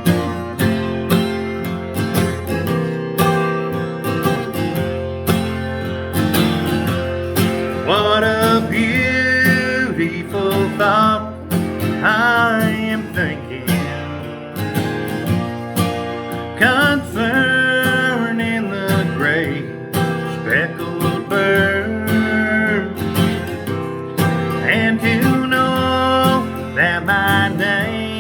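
Country-style instrumental intro: acoustic guitar strumming under a melody line that slides between notes.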